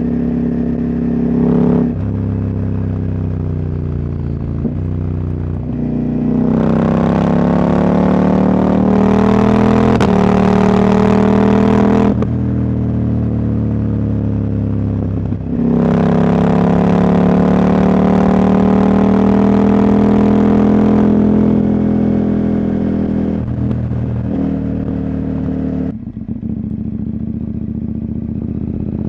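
Husqvarna Norden 901's parallel-twin engine, running with its catalytic converter removed, pulling under throttle: the note climbs steadily, drops sharply at each gear change, and climbs again. It twice pulls hard for about six seconds before a shift, then settles to a lower, quieter note near the end.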